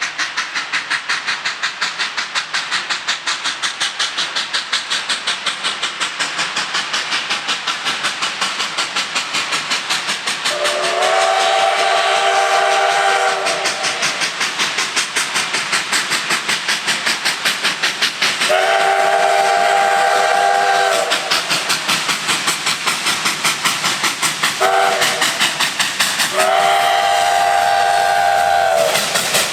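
Texas State Railroad No. 30 steam locomotive working at speed, its exhaust beating rapidly and evenly. Over it the Great Northern five-chime steam whistle sounds a chord four times: long, long, short, long, the grade-crossing signal.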